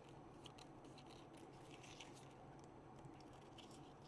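Faint, scattered small snips and ticks of scissors trimming paper, over near-silent room tone.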